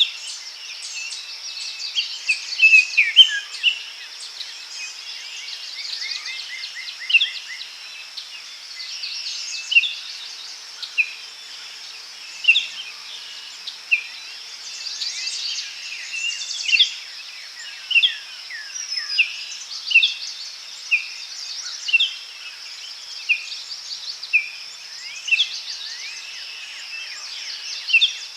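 Forest ambience: several birds chirping and calling over a steady, high-pitched insect drone. One bird repeats a short falling call about once a second, and a quick trill comes in about six seconds in.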